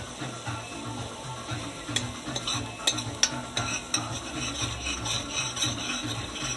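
A spoon stirring food in a pot on the stove, knocking against the pot a few times, over a steady sizzle.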